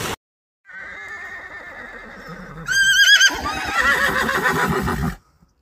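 Horse whinnying: a long high call that breaks into a quavering trill about three seconds in, then turns louder and rougher before cutting off suddenly.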